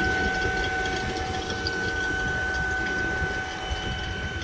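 HVAC vacuum pump running steadily to evacuate the newly run copper refrigerant line set, with a constant whine over a low rumble.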